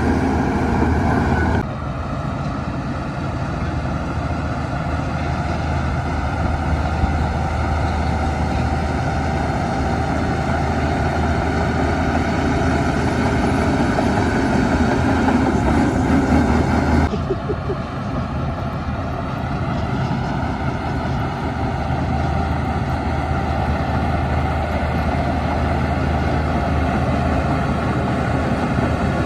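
Heavy diesel earthmoving machinery, a crawler bulldozer or dump trucks, running steadily under work. The engine sound changes abruptly about two seconds in and again just past halfway.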